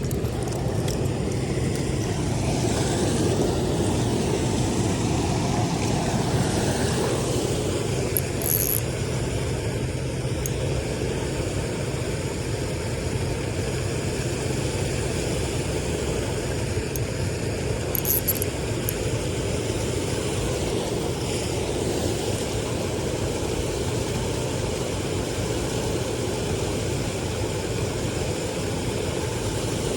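An engine running steadily with an even drone, and a couple of brief high ticks about a third and two-thirds of the way through.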